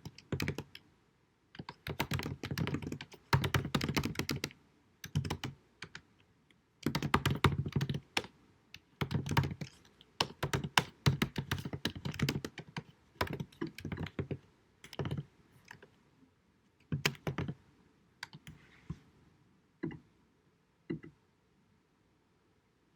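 Computer keyboard typing: bursts of rapid keystrokes with short pauses between them, thinning to a few scattered key presses and stopping near the end.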